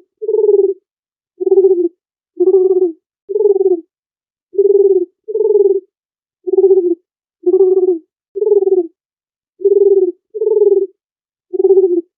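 Dove cooing: about a dozen short, low coos, each about half a second long, repeating roughly once a second with silent gaps between them.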